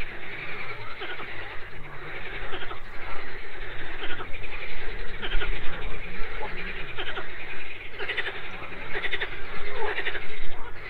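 A chorus of many frogs croaking at once, their rattling calls overlapping without a break and growing denser near the end.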